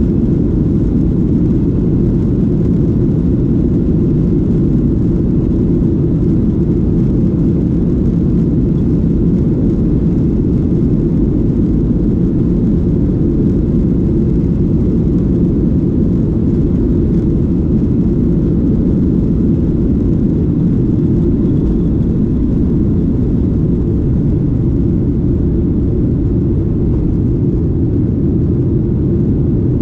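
Steady, even cabin noise of a Boeing 737-8 in flight, heard from a seat near the engine: its CFM LEAP-1B turbofan and the airflow make a constant low rumble with no change in pitch or level.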